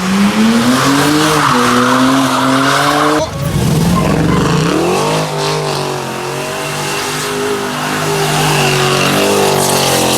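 A car drifting or doing donuts: its engine held at high revs, the pitch rising and falling, while its tyres squeal. The sound breaks off abruptly about three seconds in, then starts up again.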